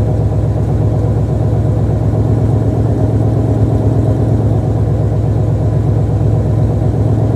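2016 Mustang GT's 5.0-litre V8 idling steadily and loudly through long-tube headers, an off-road X-pipe and a 3-inch Magnaflow Competition cat-back exhaust, warming up after a cold start.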